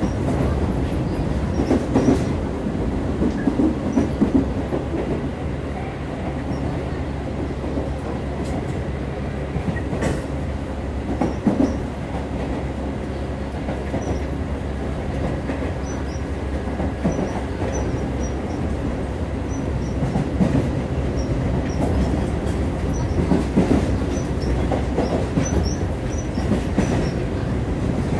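Tobu 8000 series electric train heard from inside the passenger car while running between stations. The wheels and running gear make a steady low rumble on the track, with a few sharper knocks scattered through it.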